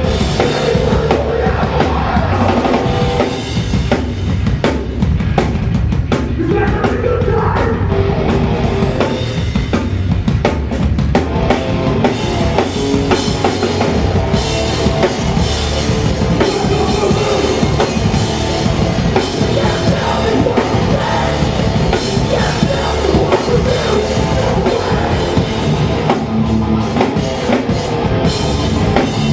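Hardcore punk band playing live, loud and steady: fast drum kit with bass drum and snare under distorted guitars and bass.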